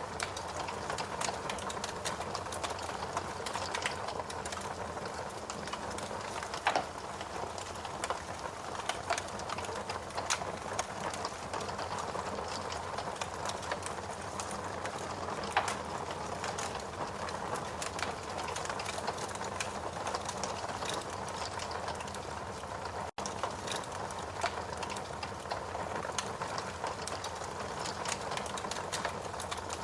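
Steady rain mixed with a crackling wood fire: an even wash of rain with irregular sharp pops and snaps from the burning logs. The sound cuts out for an instant about two-thirds of the way through.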